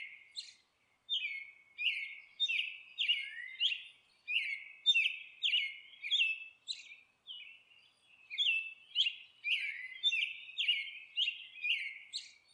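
Bird chirping: a quick series of short chirps that slide down in pitch, about two a second, in phrases broken by pauses of about a second.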